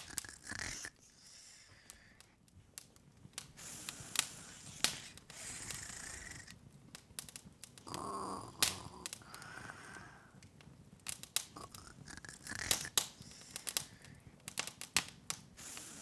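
Open wood fire crackling, with irregular sharp pops and snaps.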